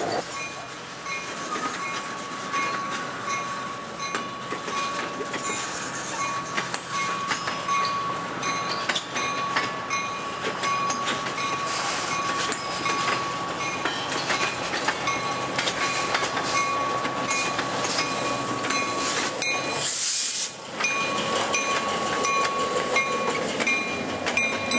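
Freight cars rolling past on the track, their wheels clicking rapidly and continuously over the rails, with a thin, steady high whine running through most of the pass. About twenty seconds in there is a short hiss.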